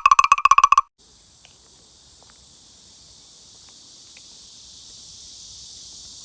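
A rapid string of short, bright chiming beeps for the first second, which cuts off. Then a steady, high-pitched summer insect chorus that slowly grows louder.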